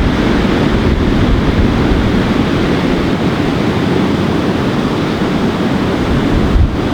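Wind buffeting the microphone over the rush of ocean surf: a loud, steady rushing noise, heaviest in the low range.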